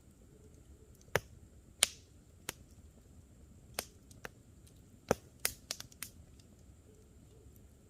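Campfire crackling, with about ten sharp, irregular wood pops, the loudest about two seconds and five seconds in.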